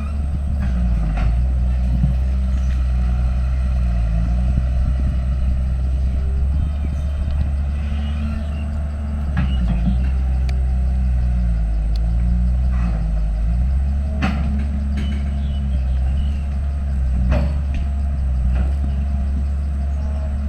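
Diesel engine of a heavy earthmoving machine running under changing load, its pitch dipping and rising several times, with occasional sharp metallic clanks.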